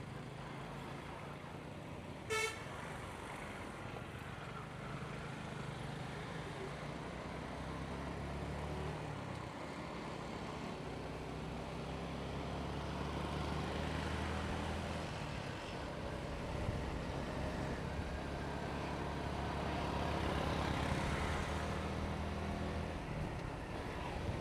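Motorcycle engine running steadily under way with road and wind noise, the engine note dipping briefly about ten seconds in. A single short horn beep sounds about two seconds in.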